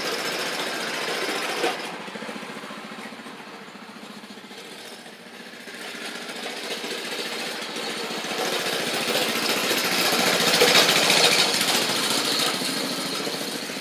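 Mini bike's small engine running, fading about two seconds in, then growing louder again to a peak near the end.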